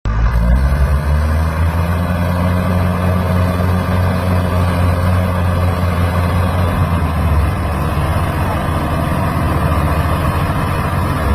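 Massey Ferguson 385 tractor's diesel engine running at steady revs, a continuous low drone; the note shifts slightly about seven and a half seconds in.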